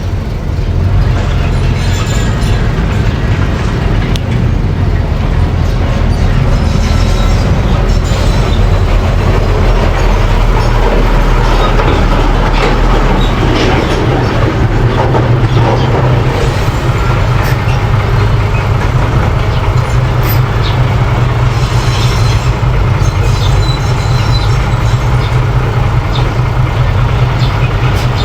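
Mini bulldozer's engine running steadily under load, with repeated metallic clatter from its crawler tracks.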